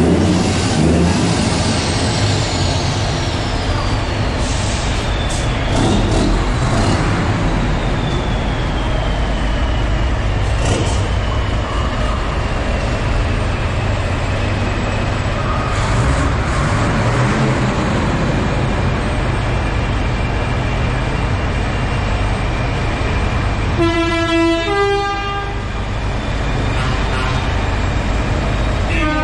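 Heavy truck engine running, with a high whistle that slowly falls in pitch over the first ten seconds. Near the end, a multi-note air horn sounds once for about a second and a half.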